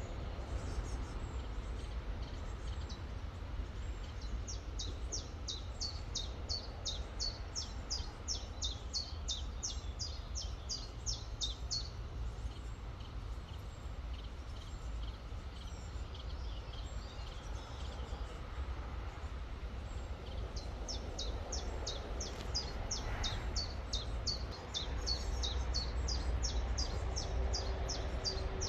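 A songbird singing long runs of quick, high, repeated down-slurred notes, one through the first twelve seconds and another starting about twenty seconds in, over the steady rushing of a river.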